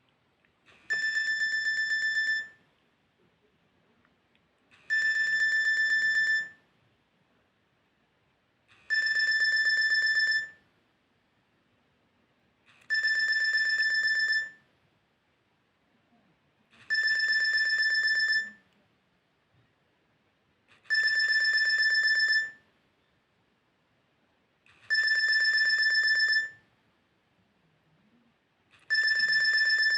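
Nokia 3110 Classic mobile phone playing a beeping ringtone through its loudspeaker: a high, steady-pitched, rapidly pulsing beep lasting about a second and a half, repeating every four seconds, eight times.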